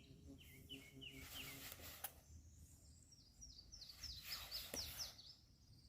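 Faint wild bird song. A short run of four down-slurred notes comes about half a second in, then a higher, quicker run of about ten down-slurred notes from about three and a half to five seconds in.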